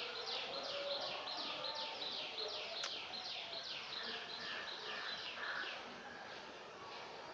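A bird calls in a rapid series of high, downward-sliding chirps, about three a second, which fade out around six seconds in. A single sharp click comes about three seconds in.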